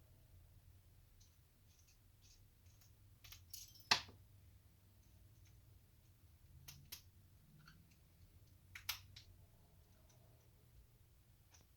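Faint, scattered clicks and light taps of hex wrenches and small metal parts being handled during engine disassembly. The sharpest click comes about four seconds in, and a few more follow near seven and nine seconds.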